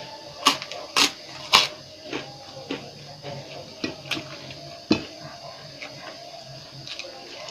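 Cutlery clinking against a dish while eating: three loud sharp clinks about half a second apart in the first two seconds, then scattered fainter taps and one more clink about five seconds in.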